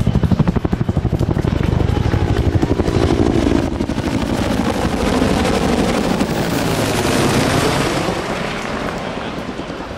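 Bell AH-1W SuperCobra attack helicopter flying past: the rapid, even beat of its two-bladed main rotor's blade slap at first, giving way to a broad rushing rotor and turbine noise that swells and then fades near the end.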